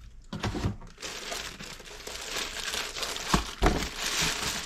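Packaging crinkling and rustling as an RC helicopter's fiberglass canopy is unwrapped by hand, with two sharp knocks in quick succession near the end.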